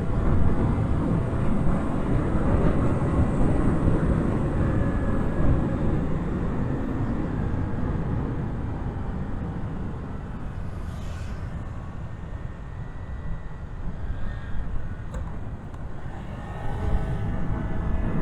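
Low rumble of road traffic passing. It is loudest in the first half, eases off, then swells again near the end.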